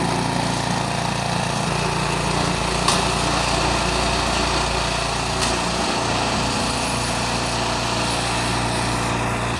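Ariens snow blower's small gasoline engine running steadily.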